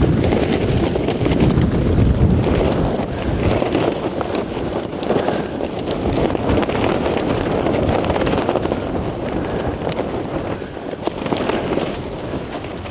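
Strong gusting wind rumbling on the microphone and buffeting a pitched tent in waves of gusts, with a few faint sharp snaps.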